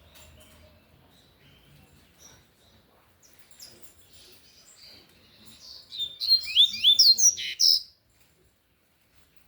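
Double-collared seedeater (coleiro) singing its tui-tui song: one short, loud burst of rapid chirped notes starting about six seconds in and lasting about two seconds.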